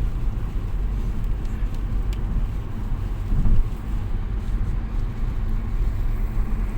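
Road noise inside a moving car's cabin: a steady low rumble of engine and tyres on the road, with a brief louder swell about three and a half seconds in.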